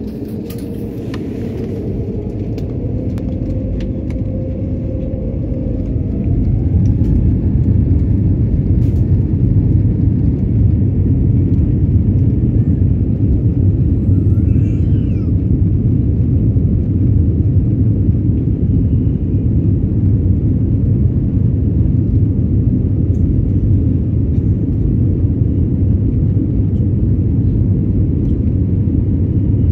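Jet engines of an Airbus A320-family airliner heard from inside the cabin at takeoff: a whine rises as the engines spool up in the first few seconds, and the noise builds into a loud, steady low rumble that then holds.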